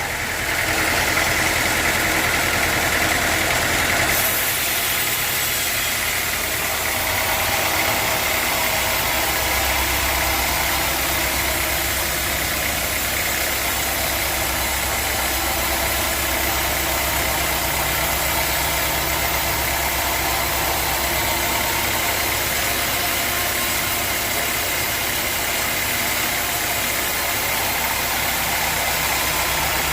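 Sawmill machinery running steadily with an engine-like hum, its sound shifting about four seconds in.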